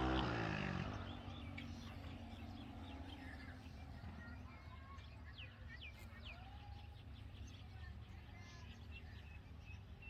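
Birds chirping in short, faint, scattered calls over a low steady hum. A low engine drone falls in pitch and fades out within the first second.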